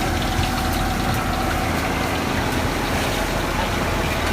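Fishing boat's engine running steadily with a low, even hum, under wind and water noise.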